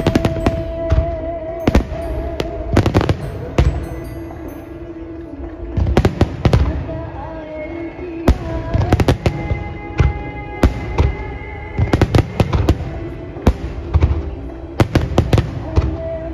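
Aerial firework shells bursting in quick volleys, many sharp bangs and crackles, with music playing underneath.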